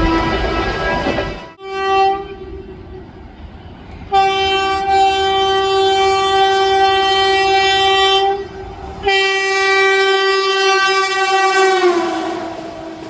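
Electric locomotive air horn sounding in long steady blasts over the noise of a passing train: a brief blast about 1.5 s in, a long blast from about 4 s to 8.5 s, and another from about 9 s whose pitch drops near the end as the train passes.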